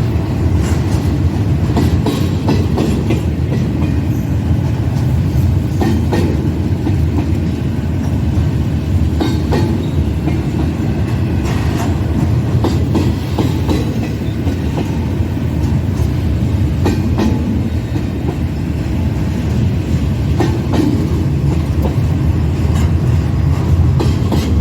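Freight train cars rolling past: a steady, loud rumble with irregular clacks of wheels over the rail joints.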